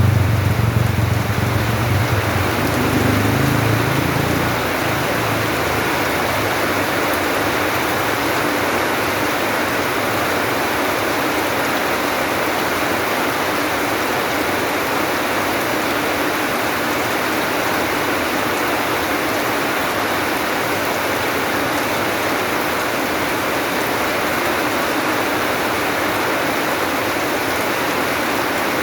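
Steady rain hiss, unbroken throughout. A low rumble underneath is louder at first and fades out about four seconds in.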